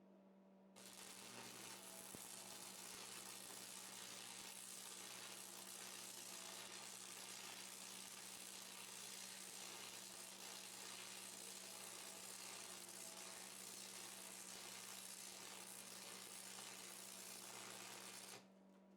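Electric arc welder running a continuous bead along the corner of a stacked steel-bar billet: a steady crackling hiss with a low buzz under it. It starts about a second in and cuts off just before the end.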